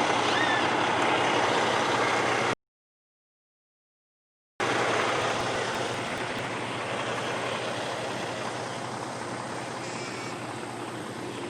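A heavy truck's engine running steadily close by. The sound cuts to dead silence for about two seconds a few seconds in, then comes back and slowly fades.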